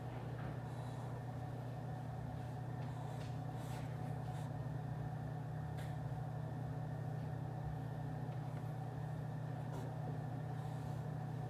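Steady low hum of office background noise, like ventilation running, with a few faint light ticks here and there.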